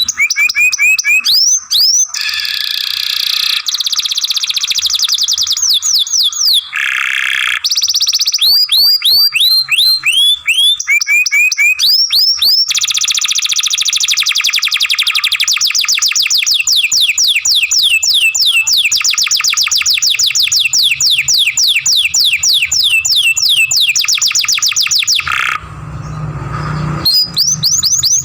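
Domestic canary singing loudly in long trills of rapidly repeated rising notes, each run lasting several seconds and changing note type between runs. Near the end the song stops for about a second and a half, leaving a low hum, then starts again.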